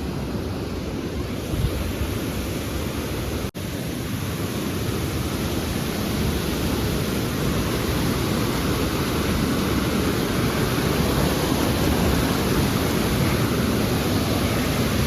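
Steady rushing roar of a waterfall, slowly growing louder, with a brief cut-out about three and a half seconds in.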